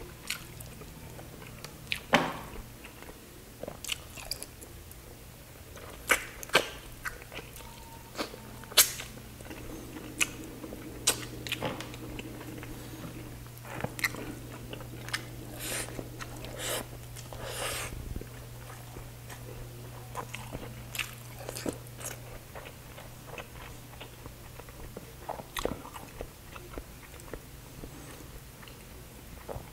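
A man eating chicken with his hands close to the microphone: wet chewing, biting and lip smacks with irregular sharp clicks, over a low hum.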